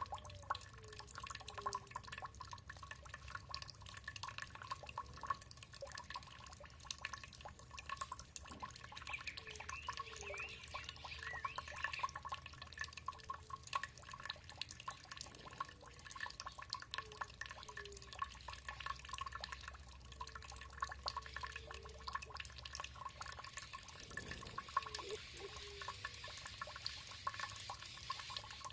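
Water dripping and trickling in a steady patter of quick drops, with birds calling over it: short falling notes every few seconds and a brief run of higher chirps about ten seconds in.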